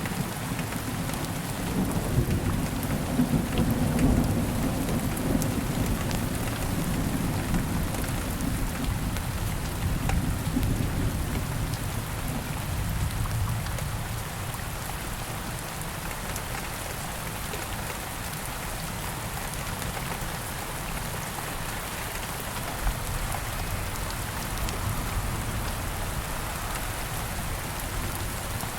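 Steady rain falling with a campfire crackling. A low rumble of thunder rolls through the first half and fades out about halfway.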